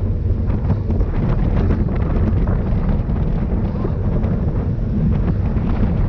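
Wind buffeting a camera microphone at riding speed: a steady, heavy low rumble, with a scatter of faint ticks running through it.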